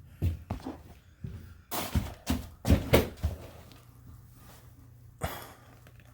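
A run of irregular knocks and clunks, loudest about two to three seconds in, as a bone stuck in a toilet's trap is worked loose, over a faint steady low hum.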